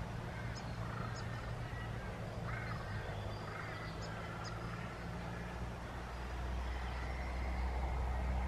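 Birds calling: a few short high chirps and several arching, rising-and-falling calls in the first half, over a steady low rumble that grows louder near the end.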